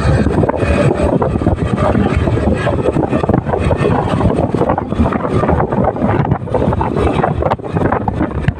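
Wind buffeting the microphone on a moving motorcycle, a loud, rough, continuous rush.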